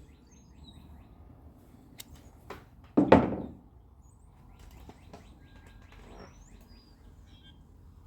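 Hand tools clicking and knocking on metal inside a car door, a single sharp click about two seconds in and a louder knock about a second later, with faint bird chirps in the background.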